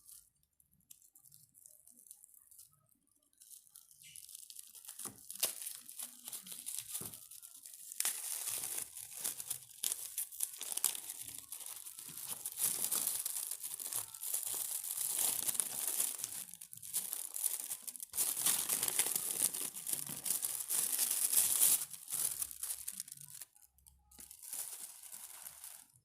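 Wrapper of a brem bar crinkling and tearing close to the microphone: a dense crackle that starts a few seconds in and runs in stretches with brief pauses.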